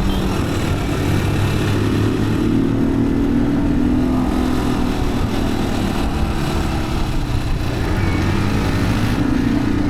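Yamaha WR155R's single-cylinder four-stroke engine running under way, its pitch dipping and rising again with the throttle, over steady wind and tyre noise.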